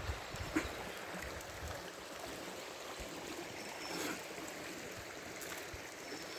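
Steady rushing of a running stream, with a few faint clicks over it.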